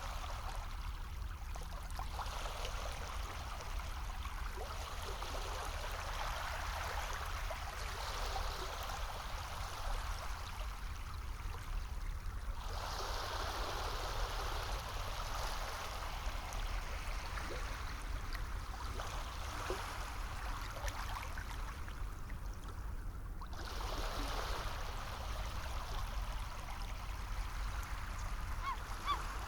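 Sea waves washing onto a shore: a continuous rush that swells and falls back in slow surges about every ten seconds, over a steady low rumble.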